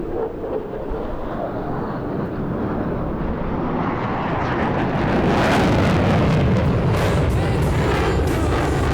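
F-35A Lightning II fighter's jet engine roar growing louder as the jet approaches, loudest from about five seconds in and then holding steady.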